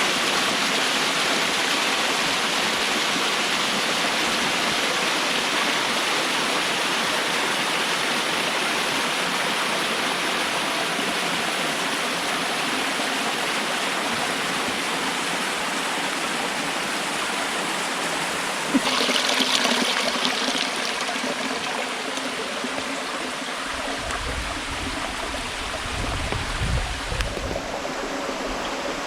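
Steady rush of a stream tumbling over rocks and small waterfalls in a gorge, with a brief louder splash of water about two-thirds through and a low rumble near the end.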